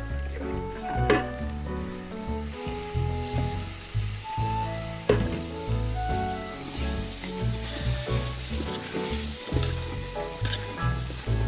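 An onion, ginger-garlic and ground-spice masala sizzles in oil in an aluminium pot as it is fried down and stirred with a slotted metal spatula. Two sharp taps come about a second and about five seconds in. Background music with a rhythmic bass line plays over it.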